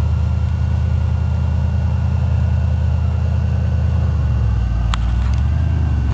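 A vehicle engine running with a steady low drone, its note changing slightly about four seconds in, and a single short click about five seconds in.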